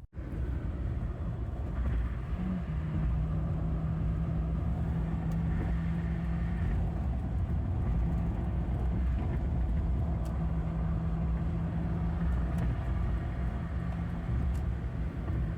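Car engine and road noise heard from inside a moving car, a steady low rumble with an even engine hum.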